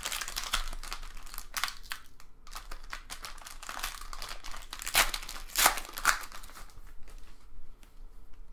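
Foil trading-card pack wrapper being torn open and crinkled: an irregular dry crackling, with a couple of louder bursts about five and six seconds in.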